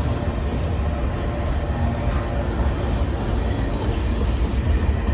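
Train going by with a steady low rumble.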